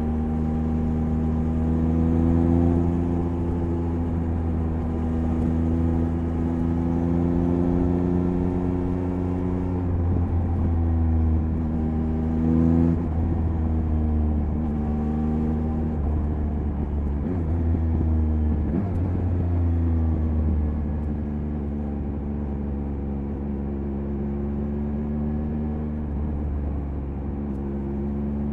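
Triumph Speed Triple 1050 RS inline-three engine running at expressway cruising speed under light throttle. The engine note holds steady, briefly dips and climbs back about twelve seconds in, then settles to a lower, steady pitch a few seconds later.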